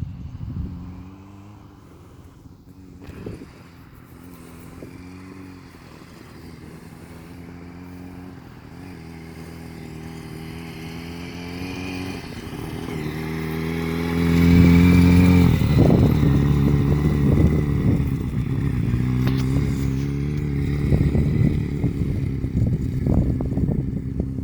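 Motorcycle engine running at a fairly steady pitch, growing steadily louder for about fourteen seconds. It is loudest around the middle, then stays loud with rough crackling and buffeting. It cuts off abruptly near the end.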